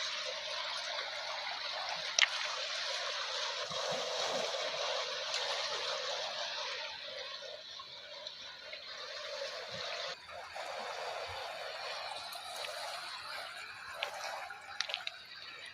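Water washing and trickling, louder in the first half and then fading, with a sharp click about two seconds in and a few more near the end.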